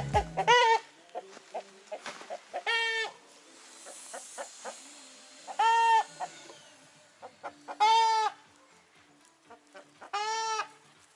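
Chickens clucking, with five loud drawn-out calls about two to three seconds apart and soft short clucks in between.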